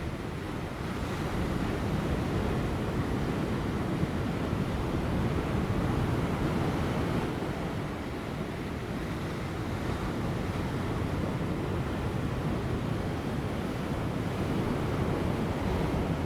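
Large ocean waves breaking on rocks: a continuous deep wash of surf that swells and eases, with light wind on the microphone.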